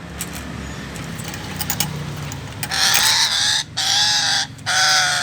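Chattering lory (Lorius garrulus) giving three loud, harsh calls in quick succession, starting about halfway through.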